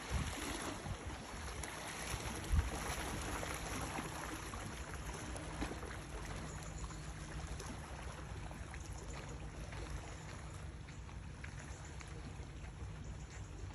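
A steady low motor hum under an even hiss, with a single thump about two and a half seconds in.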